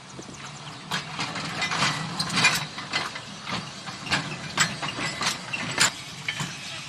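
Irregular mechanical knocking and clattering, a dozen or so sharp knocks at uneven intervals, over a steady low hum.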